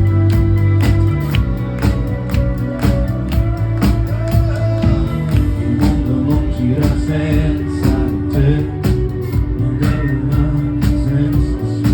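Live rock band playing an instrumental passage, with a steady drum beat of about two hits a second over sustained bass and chords, heard as a loud concert recording.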